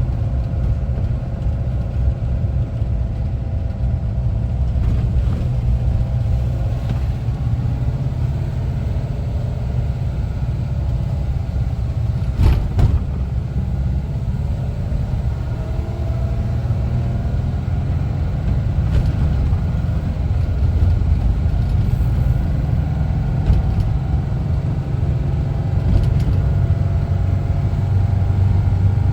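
1974 Volkswagen Westfalia camper van under way, its air-cooled flat-four engine running with a steady low rumble and a pitch that drifts up and down a little. A single short knock comes a little before halfway.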